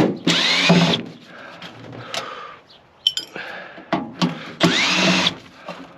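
Power drill-driver backing screws out of a microwave's sheet-metal casing in two short runs, each with a rising whine: one just after the start and one near the end. Light clicks and metal rattles come between the runs.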